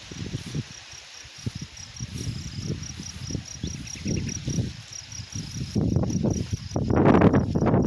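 A cricket chirping in a steady, even pulse of short high chirps, a few a second. Under it runs an irregular low rumbling noise that swells into a louder rushing sound near the end.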